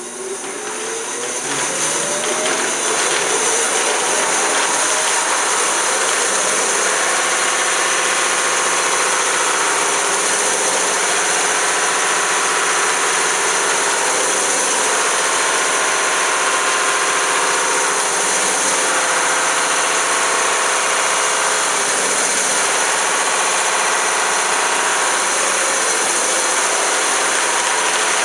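Greenlee No. 410 36-inch vertical band saw starting up, its pitch rising over the first few seconds as it comes up to speed, then running steadily.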